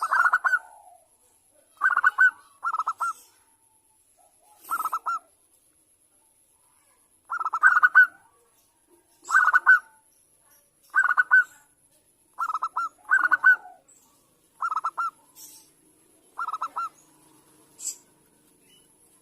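Zebra dove (perkutut) cooing: a series of short, rapid staccato trills, about one every one to two seconds. It is a female's call, used as a lure to make males answer.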